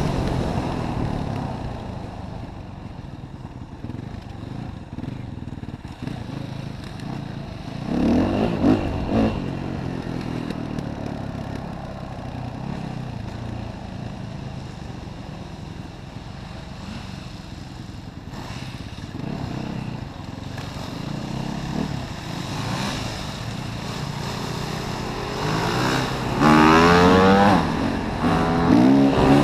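Yamaha WR450F single-cylinder four-stroke dirt bike engine running at low revs, opened up in a short burst of revving about eight seconds in and again near the end.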